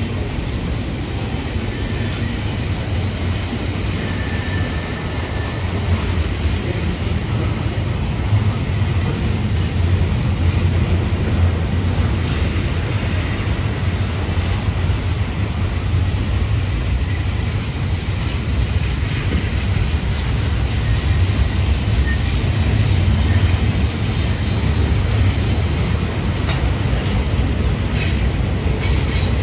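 Double-stack intermodal freight train's well cars rolling steadily past, wheels rumbling on the rails. Faint high-pitched wheel squeals come and go, mostly toward the end.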